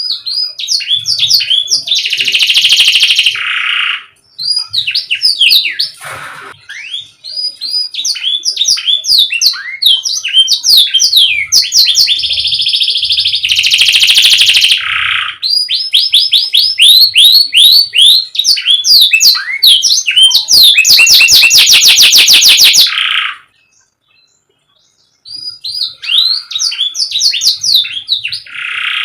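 Canary singing a long, loud song of fast trills, each a run of rapidly repeated sweeping notes, alternating with buzzy rolls. The song breaks off for about two seconds near the end, then starts again.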